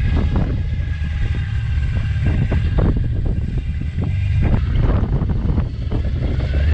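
Off-road truck's engine running at low speed, with wind buffeting the microphone and a few scattered knocks.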